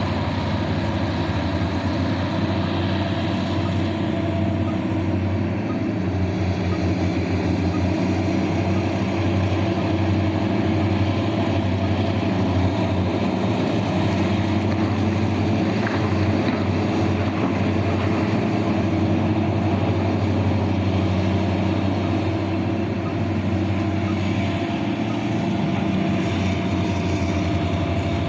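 Heavy diesel engine of mining machinery, such as a Belarusian (BelAZ) dump truck, running steadily with a deep, even hum.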